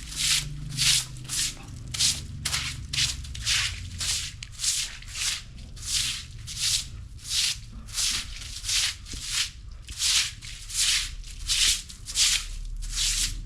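Broom sweeping the ground in brisk, even strokes, a dry swish about one and a half times a second.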